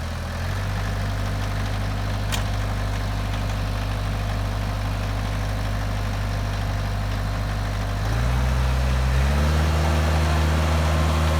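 Big tractor engine running steadily, its speed stepping up as the hand throttle is moved: a slight rise about half a second in, then higher and louder about 8 seconds in and once more a second later.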